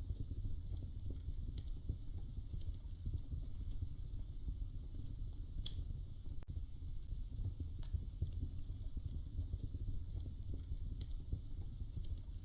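Wood fire crackling in a fireplace: a steady low rumble of burning with irregular sharp pops and snaps every second or so, the sharpest a little before the middle.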